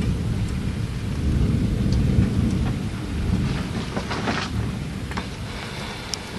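Thunder rumbling low and long, swelling again about two seconds in and fading toward the end, over the steady hiss of falling rain with scattered drops ticking.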